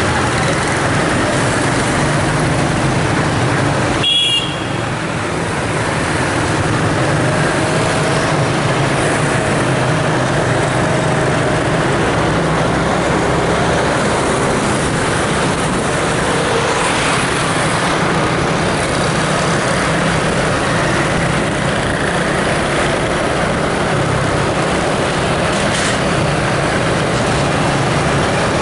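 Steady road traffic noise, continuous and loud, with a brief high tone about four seconds in.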